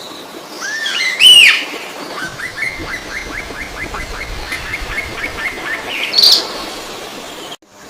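Bird calls: a couple of loud arching calls about a second in, then a rapid series of short rising chirps at about four a second, another loud call near the end, then the sound cuts off abruptly.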